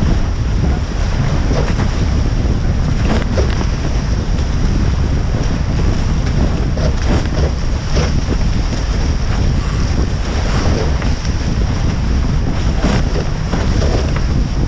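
Strong wind buffeting the microphone over rushing water from a Tornado catamaran under sail, with a few brief sharper splashes.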